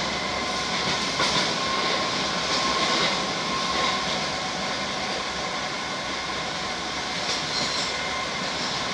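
Madrid Metro 5000-series train running between stations: a steady rumble of wheels on the track with a faint, steady whine.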